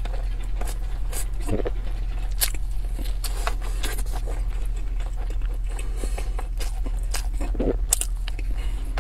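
Close-miked eating sounds: wet chewing and mouth clicks on pan-fried dumplings, with chopsticks scraping a metal tray. A steady low hum runs underneath.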